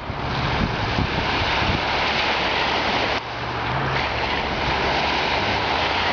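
Steady rush of flowing floodwater, with a brief drop in level about three seconds in.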